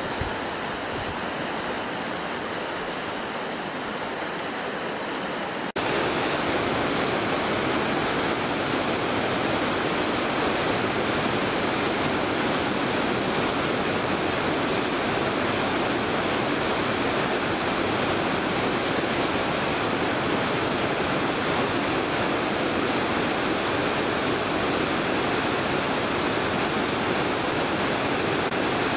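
Mountain river rushing steadily over rocks. About six seconds in it cuts abruptly to a louder, fuller rush of water.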